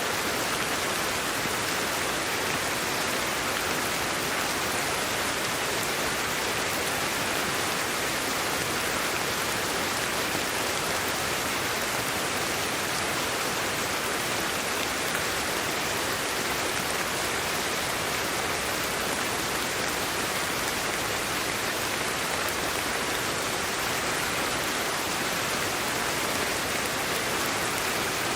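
Steady, unchanging white noise for sleep: an even, rain-like hiss with no breaks or separate sounds.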